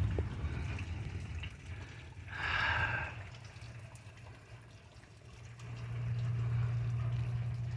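Rain dripping and trickling after a heavy downpour. A low rumble fades over the first couple of seconds, a brief hiss comes about two and a half seconds in, and another steady low rumble builds up from about five seconds in.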